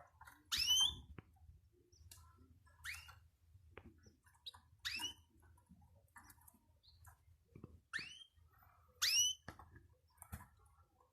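Pet cage bird calling: five short, loud, upward-curving calls a couple of seconds apart, with soft chirps and clicks in between.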